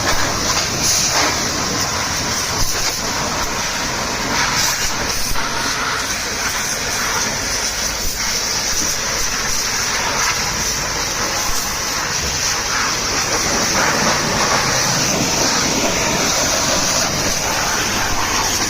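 Pressure-washer water jet spraying against a truck's body: a steady hissing spray.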